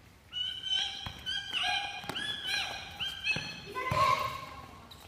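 Children's high-pitched voices calling and shouting in a quick run of short rising cries, with a few thuds among them.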